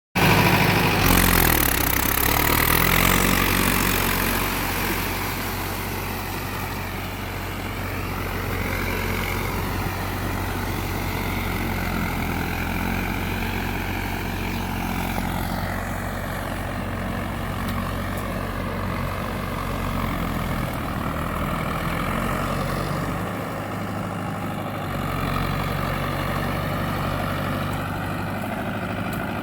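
A Mahindra 4x4 tractor's diesel engine running, louder and rising in pitch over the first few seconds, then running steadily.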